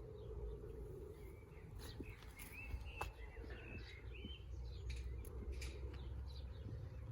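Birds chirping outdoors: a few short warbling chirps about two to four seconds in, over a faint low rumble.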